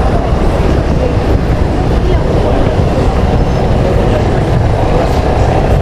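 Steady, loud low rumble of road traffic.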